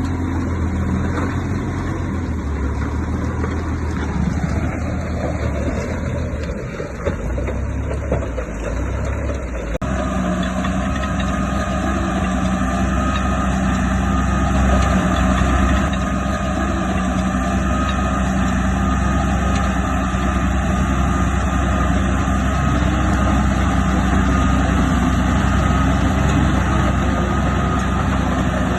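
Heavy earthmoving machine's diesel engine running steadily, with a steady higher whine; the sound changes abruptly about ten seconds in.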